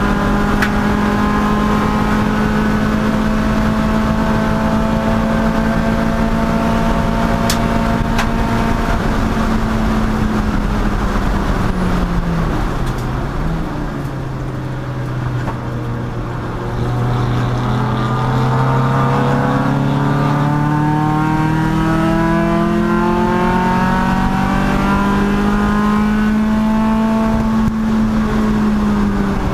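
Chump Car endurance race car's engine at speed, held at high revs for about eleven seconds. The revs drop sharply about twelve seconds in, stay low for a few seconds, then climb steadily for about ten seconds before falling again near the end.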